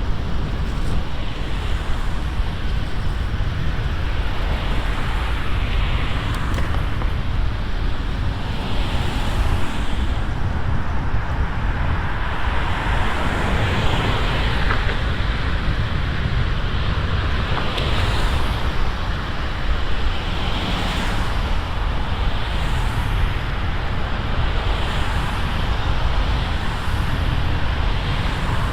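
Wind buffeting the microphone of a moving bicycle, with road traffic going by. The traffic noise rises and fades every few seconds as vehicles pass.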